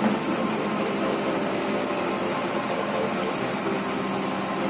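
A machine engine running steadily: an even hum with a few constant low tones beneath a noisy hiss.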